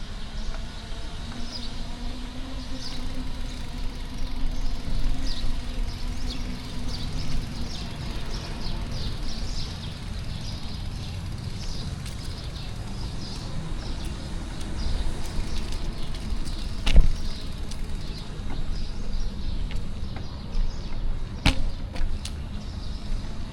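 City street traffic heard from a moving bicycle: a steady low rumble, with a passing engine's hum rising and falling over the first several seconds. Short high chirps run through the first half. Two sharp knocks come, one about two-thirds of the way in and one near the end.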